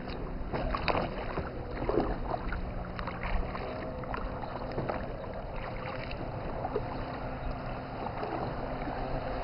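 Paddles dipping and splashing in the water beside small paddle craft, with a few sharper strokes in the first three or four seconds.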